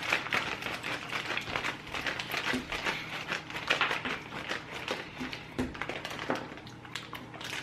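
Rustling and crinkling of a plastic candy wrapper with a run of small ticks and clicks, as a bag of chocolate bites is handled and rummaged through.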